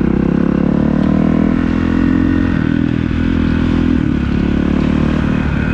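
The 2019 Kawasaki KX450F's single-cylinder four-stroke engine idles steadily through a Pro Circuit aftermarket exhaust, with rapid even firing pulses.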